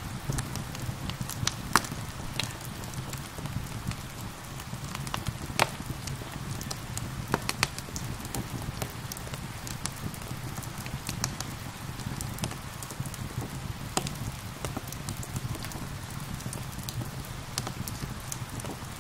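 Wood fire crackling and popping in irregular sharp snaps over a steady hiss of rain, with a low rumble underneath.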